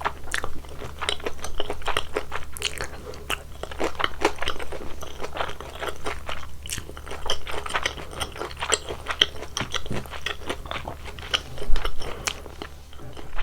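Close-miked chewing of crispy fried pork in glutinous-rice batter: a dense run of crunching and crackling bites, with a low steady hum underneath.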